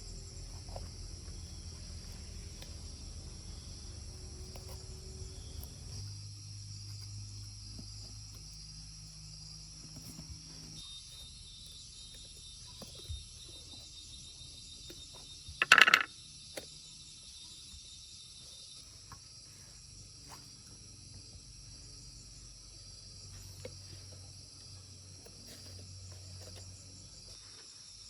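Steady high-pitched chirring of crickets, with scattered small clicks and one loud, brief metallic clink about halfway through.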